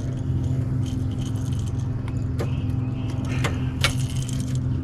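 A steady low engine hum with scattered light clicks and rattles on top.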